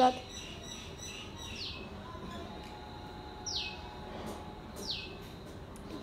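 Birds calling: a short, high-pitched chirp that slides downward, heard three times about a second and a half to two seconds apart. These are calls passing between a caged fledgling, which its keepers take for a bulbul, and adult birds of its kind answering from nearby.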